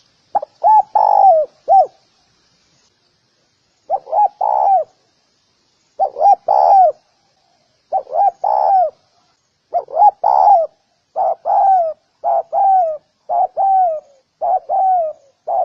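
Spotted dove cooing: repeated phrases of low hooting notes, in spaced groups at first, then from about eleven seconds in one phrase right after another. Faint high chirps sound above the cooing.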